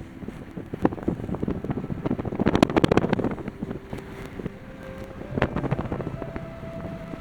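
Car driving, with a low rumble and a run of knocks and rattles, thickest about two and a half to three seconds in.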